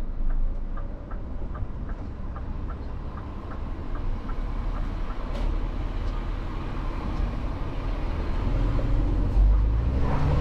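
Truck engine running low, heard inside the cab, with the indicator ticking about three times a second for the first six seconds or so. The engine gets louder near the end.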